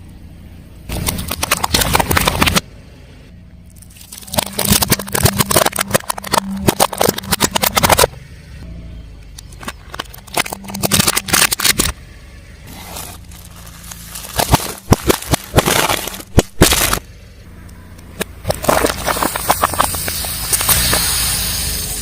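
Car tyre rolling over and crushing crunchy objects: five separate bursts of crackling, snapping and breaking, with sharp cracks in the fourth, each starting and stopping abruptly.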